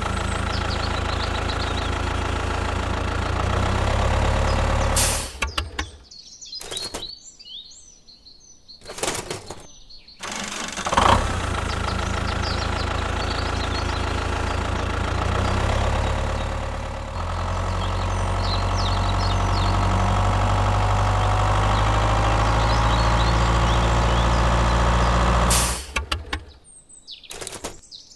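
Steady low mechanical hum of a motor or engine running, with two breaks: one from about six to ten seconds in and one near the end. Short bird chirps can be heard in these breaks.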